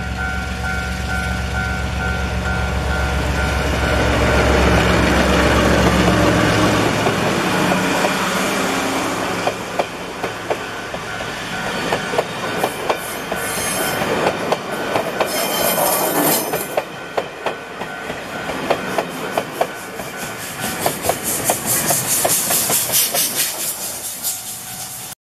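Taiwan Railway diesel-electric locomotive R23 passing close with its engine running, then its passenger coaches rolling by, wheels clattering over the rail joints. Wheel squeal comes in bursts around the middle, and the clatter turns fast and regular near the end.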